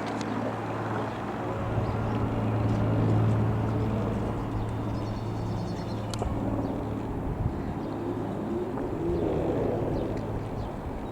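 Rockwell Commander 114's single piston engine droning as the aeroplane passes over, a steady low hum that is loudest about three seconds in and then slowly fades.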